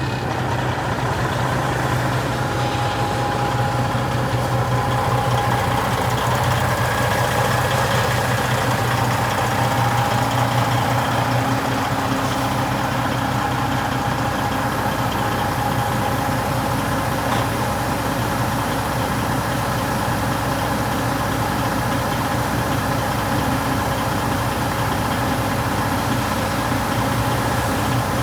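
Truck engine idling steadily with a constant low hum.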